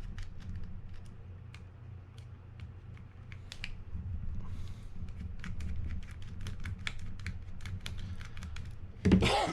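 Small, irregular clicks and ticks of a small screwdriver working screws out of a spinning reel's rotor, with the loose screws and reel parts being handled. A steady low hum runs underneath, and a short vocal sound comes near the end.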